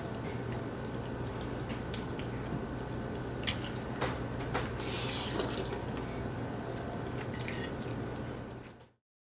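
Steady low room hum with a few light clicks and short soft hissing noises, then the sound cuts off abruptly near the end.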